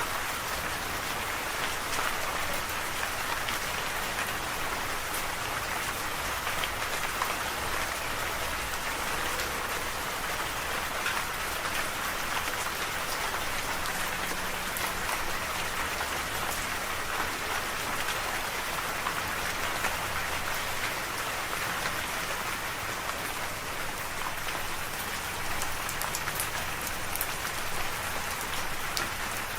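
Steady rain falling and pattering on surfaces, with many fine individual drop clicks over an even hiss.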